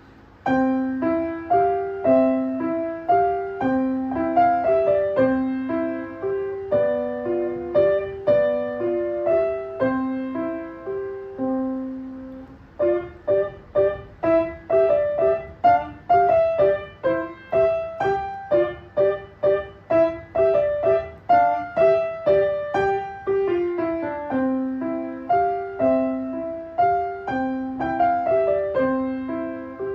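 Solo piano playing a simple, gentle melody in repeating phrases. After a brief pause about twelve seconds in, it carries on with quicker, more closely spaced notes.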